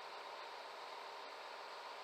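Steady, even hiss with no pitch or rhythm.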